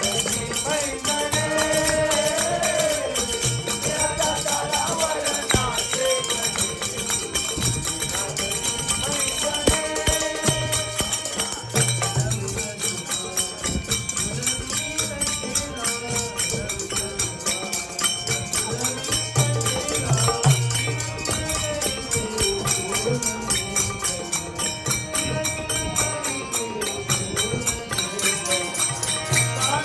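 Devotional bhajan music: a singing voice over sustained harmonium notes, with jingling percussion keeping a fast even beat and a drum thumping underneath.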